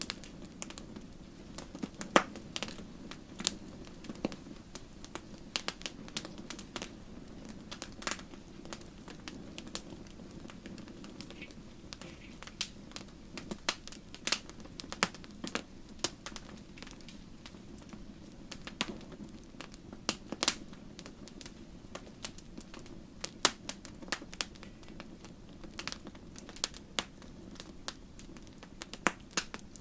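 Wood campfire crackling: a steady low rush of burning with frequent irregular sharp pops and snaps of burning wood.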